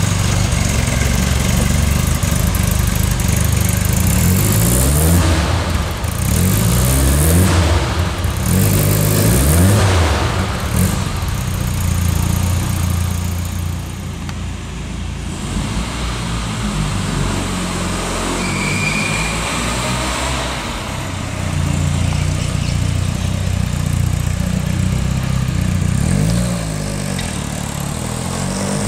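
The 1275cc inline-four of an MG Midget, breathing through a header and sports exhaust, running and being revved, its pitch rising and falling several times in the first ten seconds. It runs more steadily after that and climbs again near the end as the car pulls away.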